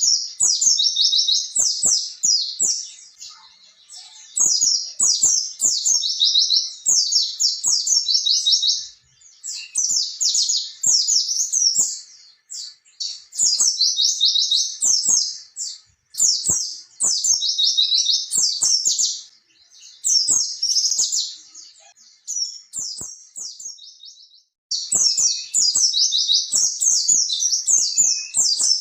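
White-eye (pleci) singing a fast, high, twittering song in long rolling phrases of a few seconds each, with short pauses between them. This is the 'ngalas ngerol' style, a long, wild-sounding song. Faint clicks sound now and then under the song.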